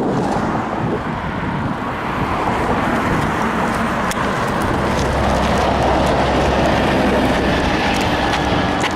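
Road traffic passing close by, a steady rush of vehicle noise, with a heavy vehicle's low engine hum swelling in about halfway through and fading about three seconds later.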